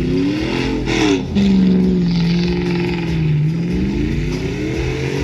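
Straight-piped exhaust of a 2004 Chevrolet Silverado's 4.8-litre V8, revving up and dropping back twice: the pitch climbs, falls sharply about a second in, holds steady, then climbs again and falls off near the end.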